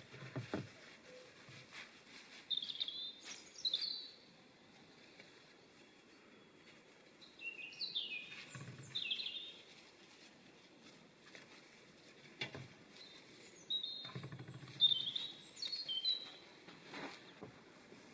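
A songbird singing outdoors: three short bursts of quick, high chirping phrases a few seconds apart, with a few soft low thumps in between.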